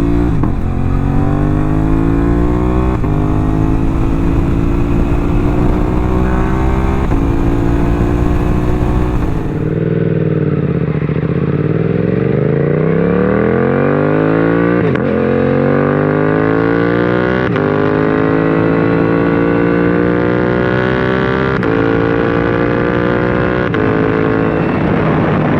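2024 Suzuki GSX-8S parallel-twin engine through a full M4 exhaust, accelerating up through the gears: the pitch climbs and drops back at each upshift, several times. About ten seconds in the pitch falls away as the bike slows, then it pulls up through the gears again with a few more shifts.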